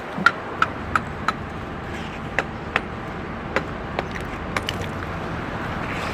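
A run of sharp ringing knocks, four about three a second near the start, then a few more spread out, over a steady rumble of traffic-like background noise.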